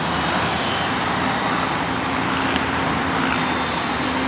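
Align T-Rex 700E electric RC helicopter in flight: a high motor and gear whine that wavers slightly in pitch, over the steady rush of the rotor blades.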